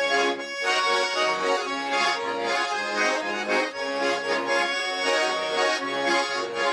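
Accordion music: a bayan and garmon playing the instrumental chastushka tune between sung verses, in steady rhythmic chords.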